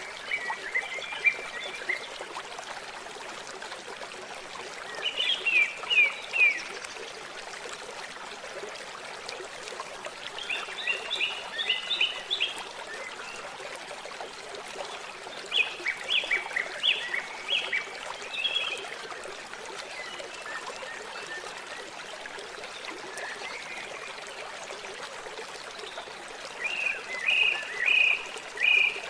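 Steady trickling water, with an animal calling in short groups of rapid high chirps about five times.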